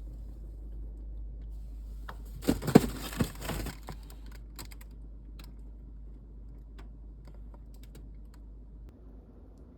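Packaging being handled: a dense burst of crackling and clicks about two and a half seconds in, lasting about a second, then a few scattered light clicks.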